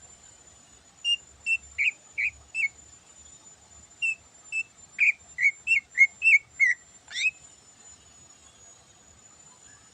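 Greater green leafbird (cucak ijo) singing a string of short, loud whistled notes: five spaced notes, a short pause, then a faster run of about ten notes ending in a quick upward sweep, after which it falls quiet.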